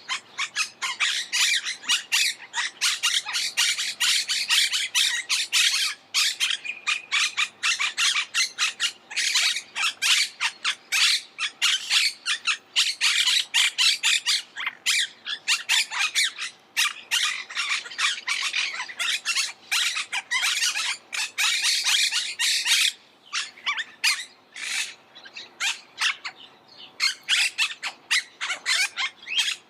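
Monk parakeets calling: rapid, dense chatter of short squawks, several a second and nearly unbroken, with brief lulls about three-quarters of the way through.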